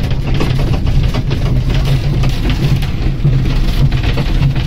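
Passenger train running, heard from inside the carriage: a loud steady rumble with constant fine rattling, which sounds like thunder and rain.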